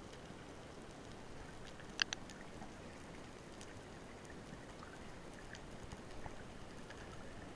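Underwater ambience heard through a diver's camera: a steady low hiss with scattered faint crackling ticks, and two sharp clicks in quick succession about two seconds in.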